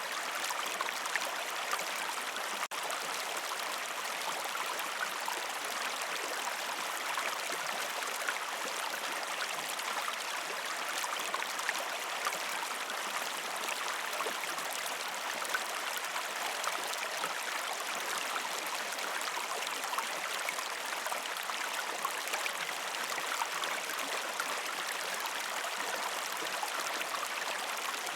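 River stream water flowing over rocks: a steady, even rush with small splashes and gurgles throughout. There is a brief dropout about three seconds in.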